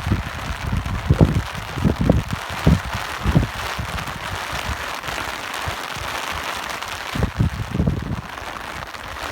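Steady rain hiss with gusts of wind buffeting the microphone in irregular low rumbles, strongest in the first few seconds and again briefly near the end.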